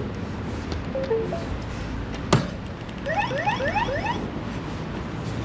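Electronic e-bike alarm sounding: two short beeps, a sharp click, then a quick run of about five rising chirps lasting about a second.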